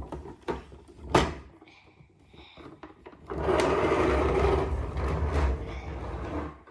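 Toy being handled: a sharp click, then a louder snap about a second in, followed by about three seconds of steady mechanical rattling and whirring.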